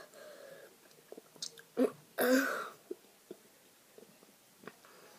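Mouth noises of someone sucking and chewing Warheads sour hard candy: small wet clicks and smacks, with a short louder vocal sound, a grunt or pained exhale at the sour taste, about two seconds in.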